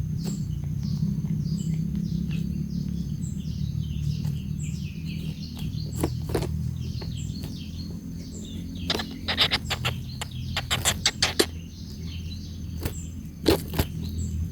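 Birds chirping and twittering over a steady low hum, with a short high pip repeating at an even pace. Two clusters of sharp taps stand out, one around two-thirds of the way through and a briefer one near the end.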